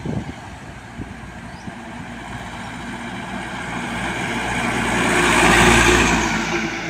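A truck drives past. Its engine and tyre noise grow louder to a peak about five and a half seconds in, then fade.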